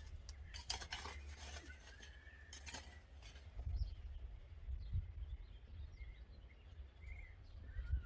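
Faint bird chirps over a low rumble, with a run of dry crackling clicks in the first three seconds.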